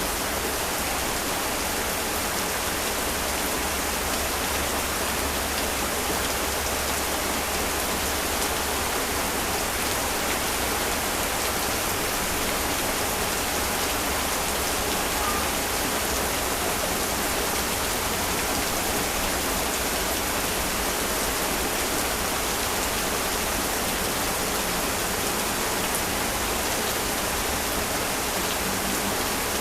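Heavy rain falling steadily, an even hiss that neither builds nor breaks.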